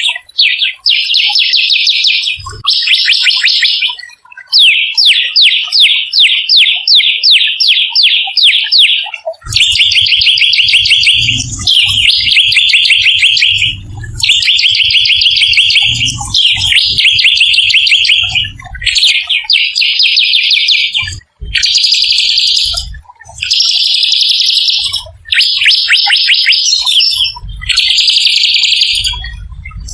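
Small songbird singing loudly in fast, harsh rolling trills, phrase after phrase of a second or two with short breaks between them. One stretch is a quick run of repeated notes. A low rumble comes and goes beneath the song in the later part.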